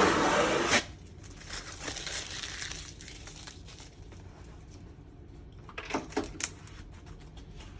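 Cardboard boxes being handled: a loud scraping rush of cardboard at the start, a softer rustle about two seconds in, and a few sharp knocks around six seconds in.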